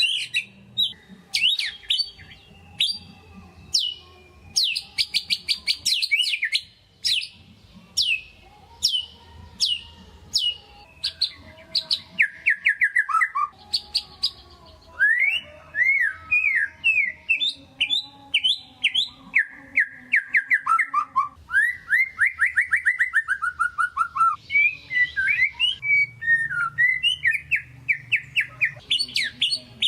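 White-rumped shama (murai batu) singing continuously: a loud, varied string of sharp down-slurred notes and fast trilled phrases, separated by short gaps.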